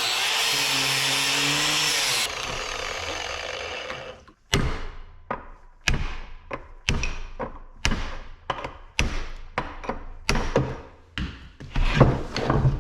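Angle grinder cutting into an electric motor's housing, then winding down over a couple of seconds; after that, a run of about a dozen sharp metal blows, roughly one or two a second, like a hammer knocking the motor apart to get at its copper windings.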